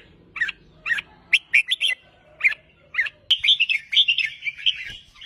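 Red-whiskered bulbul singing: a string of short chirps about twice a second, then from about three seconds in a faster run of warbled song notes.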